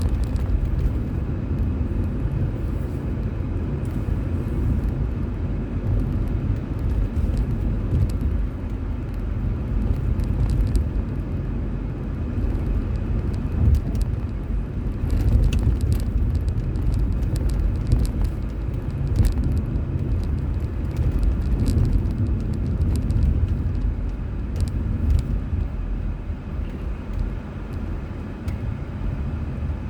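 Car interior driving noise: a steady low rumble of tyres on the road and the engine, with scattered faint ticks and rattles.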